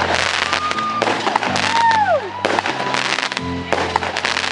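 Consumer fireworks going off in quick succession, crackling and banging, with a whistle that falls in pitch about two seconds in. Music plays underneath.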